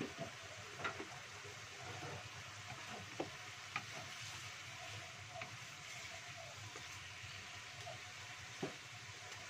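Vegetables and meatballs sizzling in a wok while a wooden spatula stirs them, with a few short clicks of the spatula against the pan.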